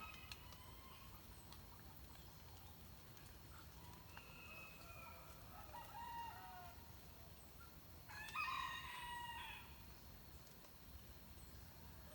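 A rooster crows once, about eight seconds in, in a single call lasting about a second and a half. Other birds give shorter calls before it.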